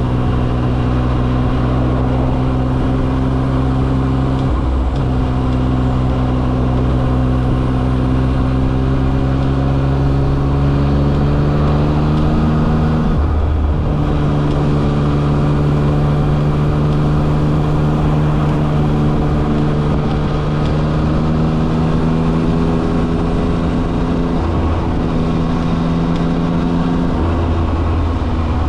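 Yamaha XSR900's inline three-cylinder engine running under way. Its note climbs slowly, then drops after a gear change about 13 seconds in and holds steady. There is a brief break about 5 seconds in.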